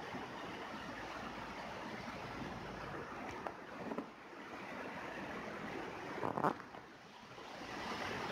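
Rain falling steadily. A few louder splashing drops stand out around the middle, the loudest about six and a half seconds in.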